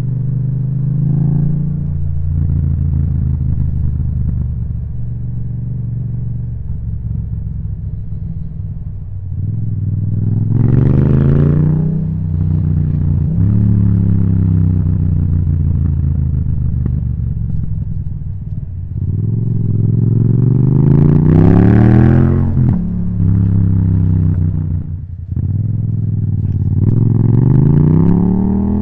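Yamaha MT-07's parallel-twin engine through an Akrapovic titanium exhaust, running steadily while riding, then accelerating three times, about ten, twenty and twenty-seven seconds in. The pitch climbs on each pull and drops suddenly at the gear changes.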